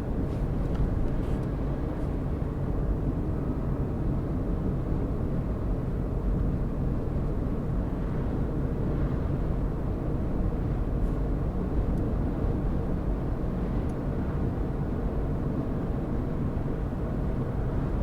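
Car driving at a steady speed: an even low rumble of engine and tyre road noise.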